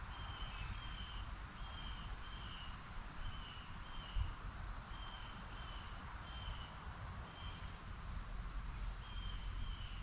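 A songbird singing a repeated two-note whistled phrase: short, slightly falling notes, the pairs coming about once a second, over a steady low rumble.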